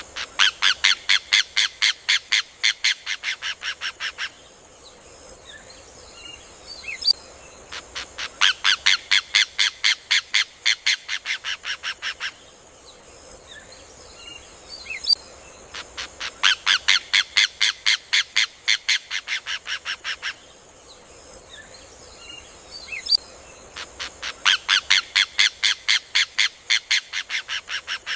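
Rufous hornero (João de Barro) singing: four bouts of rapid, evenly repeated loud notes, each bout lasting about four seconds and growing weaker toward its end, with faint short calls in the gaps. A faint steady high hiss runs beneath.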